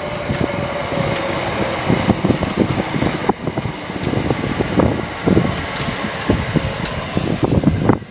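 London Overground Class 378 electric train running into the platform, with steady running noise, irregular knocks from the wheels, and a faint motor whine falling slightly in pitch as it slows.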